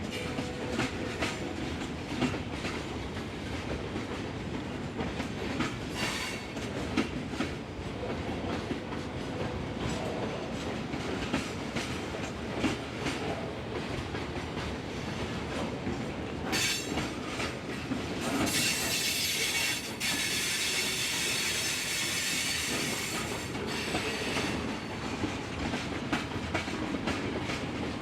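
Norfolk Southern freight train rolling past, its wheels clicking steadily over the rails. About two-thirds of the way in a high wheel squeal rises over it for several seconds, then stops.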